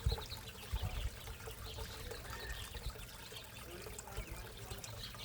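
Water trickling and splashing steadily in a backyard koi pond, with a few low bumps in the first second.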